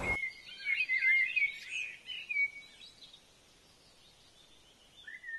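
Songbird singing: rapid warbling chirps that die away after about three seconds, then one short chirp near the end.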